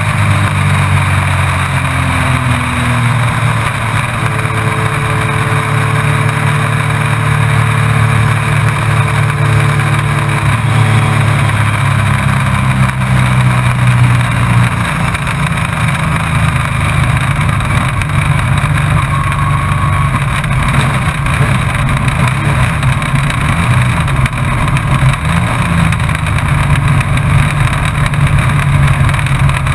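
Race truck engine heard from the onboard camera in the cab, running at steady revs with no sharp changes; about halfway through its even note gives way to a rougher rumble.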